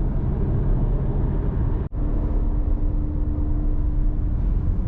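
Steady low rumble of a moving car heard from inside the cabin, with a faint steady hum. It briefly cuts out about two seconds in.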